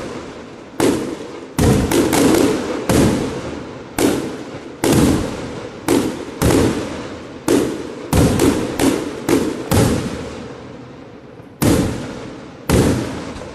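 Fireworks bursting: a dozen or more loud bangs at irregular intervals, some in quick clusters, each followed by an echoing tail about a second long.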